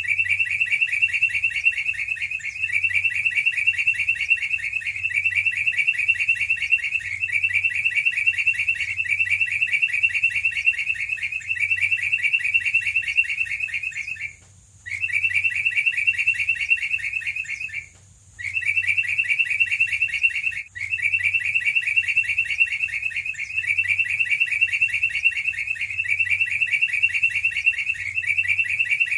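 Yellow-vented bulbul (trucukan) song as a long, unbroken, rapid high trill that repeats in an even, looped pattern. It drops out briefly twice about halfway through and stutters once more shortly after.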